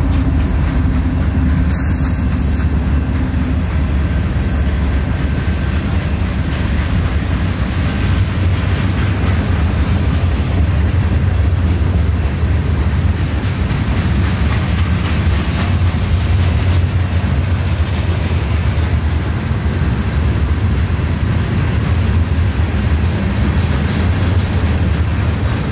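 Freight cars of a passing manifest train rolling by: a steady, loud rumble of steel wheels on the rails.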